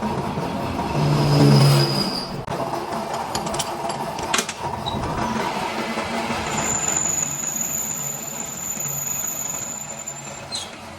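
Machine-shop noise: machinery running steadily with scattered clicks, and a thin high-pitched whine through the second half.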